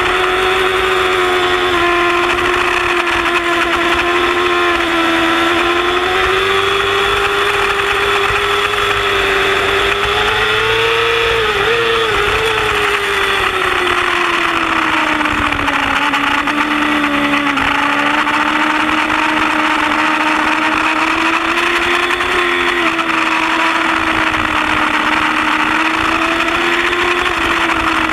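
Yamaha R6 sport bike's inline-four engine held at high revs under race throttle, its pitch climbing a little about ten seconds in and easing down a few seconds later. Wind rushes over the onboard microphone throughout.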